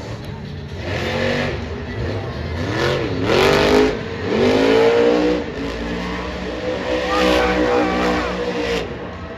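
Monster truck's supercharged, alcohol-fuelled engine revving hard, its pitch swooping down and back up several times as the throttle is worked.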